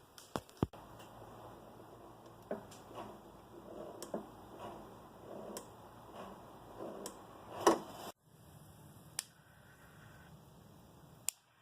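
Scattered light clicks and knocks over a low hiss, with one louder knock about two-thirds of the way through.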